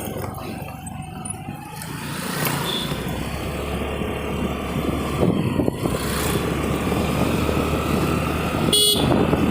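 Road noise on a scooter ride: a steady rush of wind and motor that slowly grows louder, with a short horn toot near the end.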